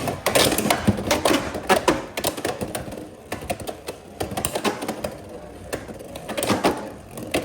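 Beyblade X tops, Silver Wolf 1-60 Rush among them, spinning and clashing in a plastic stadium: rapid clacking hits, thickest in the first two seconds, then scattered knocks and another flurry near the end as one top nearly goes into an over pocket.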